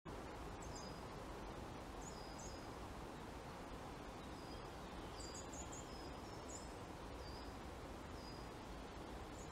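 Steady woodland background hiss with faint, high-pitched short bird chirps scattered through it, mostly single notes and one quick run of about four in the middle.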